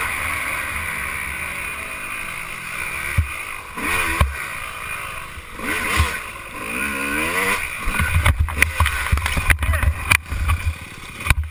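Dirt bike engine running and revving up and down, with a steady rushing noise throughout. From about eight seconds in come many quick knocks and thumps over a low rumble.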